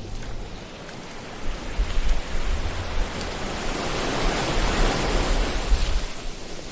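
Ocean waves washing onto a shore: a surge of surf builds about a couple of seconds in, peaks, and recedes near the end, over a low rumble of the sea.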